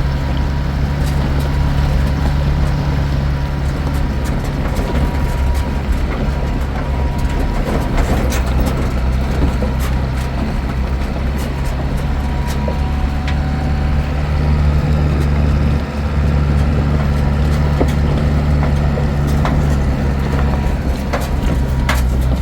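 A vehicle engine running steadily, a loud low drone with light clicks and rattles scattered through it.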